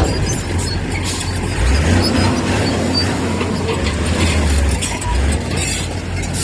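Heavy earthmoving machinery at work: a diesel engine running with a low rumble that swells and drops every second or so, over scattered metallic clinks and clatter.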